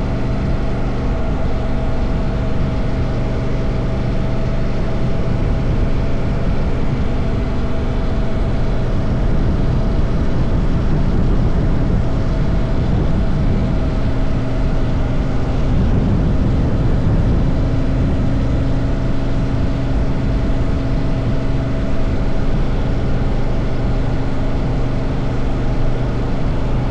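Honda CRF1000L Africa Twin's parallel-twin engine running at a steady cruising speed under a constant rush of wind and road noise, the engine note shifting slightly about halfway through.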